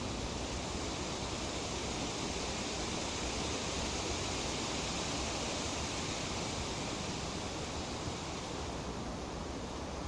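Breeze rustling through tree leaves: a steady, even hiss that swells slightly in the middle and eases a little near the end.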